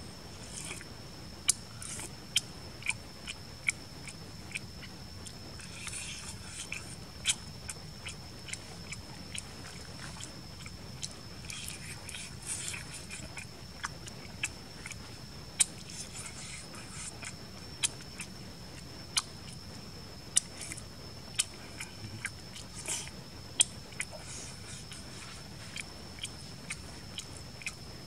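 A man chewing and biting into cooked frog and leaves, with sharp mouth clicks and smacks at irregular intervals.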